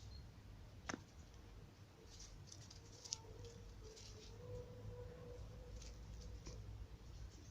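Faint scuffling, scratching and light taps of kittens' paws and claws as they play-fight, with a sharp click about a second in and another about three seconds in.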